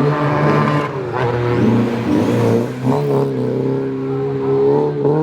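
Rally car engine running, with a few brief rises in revs about a second in and again around three seconds.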